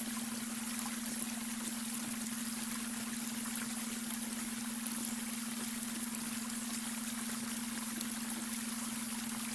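Babbling brook: water rippling and trickling steadily with many small splashes. Under it runs a steady low hum, the added beta-wave brainwave tone.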